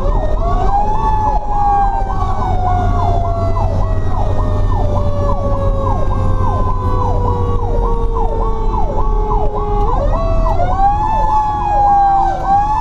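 Fire truck sirens running together. An electronic siren sweeps about twice a second, while a mechanical Federal Q siren winds up, slowly coasts down in pitch, and is wound up again about ten seconds in. The truck's engine rumbles steadily underneath.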